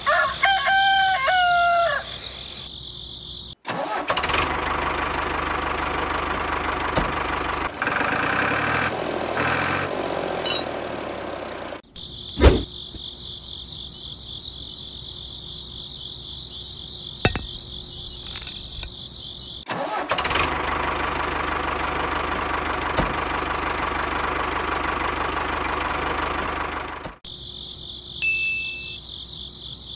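A small motor runs with a noisy whirr in two stretches of several seconds each, switched in and out abruptly. Between them steady cricket chirring fills the gaps, and a rooster crows at the start.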